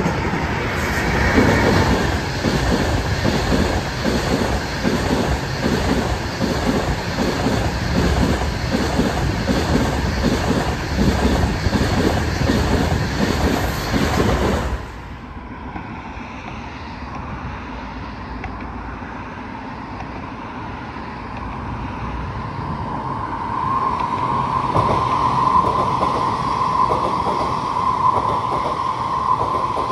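Chinese high-speed train running on the rails: a loud, dense rumble with rapid clicking of wheels over the track. About halfway through the sound cuts abruptly to a quieter train sound, in which a steady high whine grows louder toward the end.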